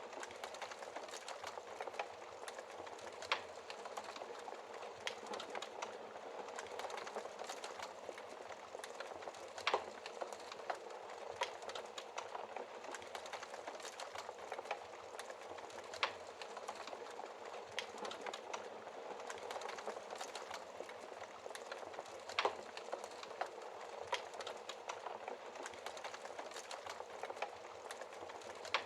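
Wood fire in a fireplace burning, with a steady soft hiss and irregular crackling, and a few louder pops every several seconds.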